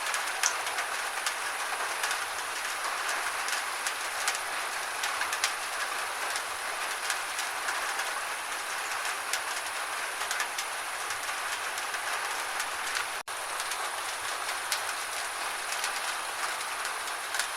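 Gentle rain falling steadily, a dense hiss with frequent sharp drips and patters on a surface. The sound cuts out for an instant about thirteen seconds in.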